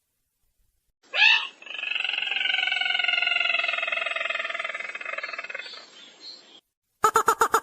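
Recorded bird lure call of the sintar merah, a rail. A short rising note is followed by one long, slightly falling, trilled call of about five seconds that fades out. Near the end a rapid series of sharp clipped notes starts, about eight a second.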